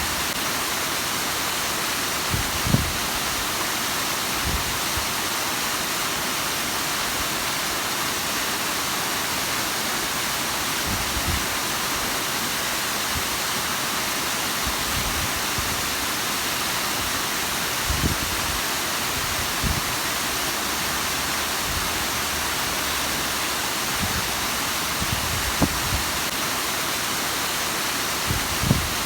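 Bigăr waterfall's water falling steadily, a constant rushing hiss, with a few brief low thuds now and then.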